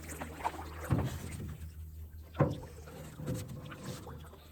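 Canoe paddling: a few sudden paddle knocks and splashes about a second and a half apart, over a low steady rumble.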